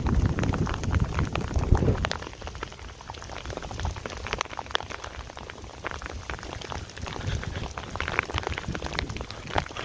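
Heavy rain with scattered hailstones ticking sharply on a surface. A low rumble of wind buffeting the microphone runs for about the first two seconds, then dies away.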